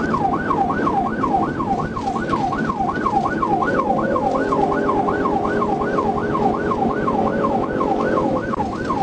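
Police car siren on a fast yelp, a rising-and-falling wail repeating about three times a second, over road and engine noise from the patrol car at pursuit speed.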